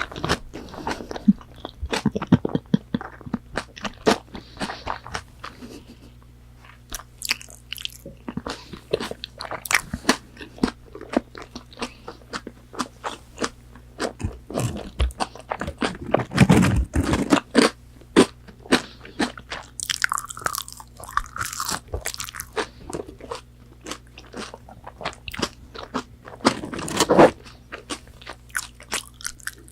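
Close-miked crunching and chewing of McDonald's chicken nuggets, a steady run of crisp bite sounds with louder, heavier bites about halfway through and again near the end.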